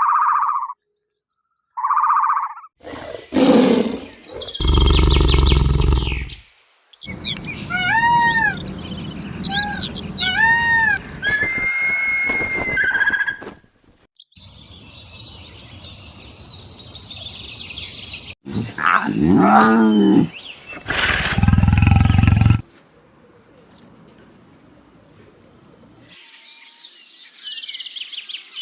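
A string of separate animal calls cut one after another, among them loud, deep roars and, in between and near the end, quick chirping bird calls.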